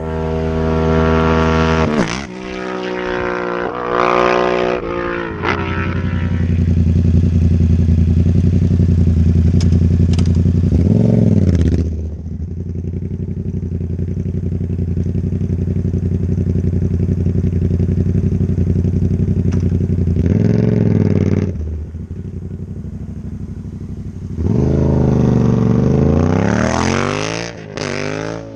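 Yamaha MT-07 parallel-twin engine through a Black Widow exhaust with the dB killer removed, accelerating hard through several quick upshifts. It then runs at a steady pace with a couple of brief dips in revs, and speeds up again near the end.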